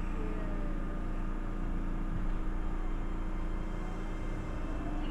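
Running noise inside a moving Osaka Metro New Tram car, a rubber-tyred automated guideway train: a steady low rumble with a constant hum.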